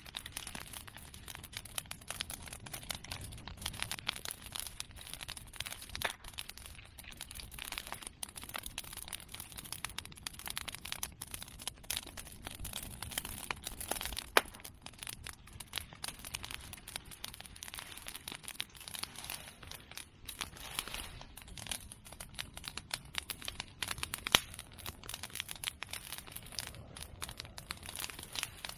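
Open bonfire of cut Simon bamboo and chestnut pruning branches crackling steadily, a dense run of small snaps and pops, with two louder pops about halfway and near the end.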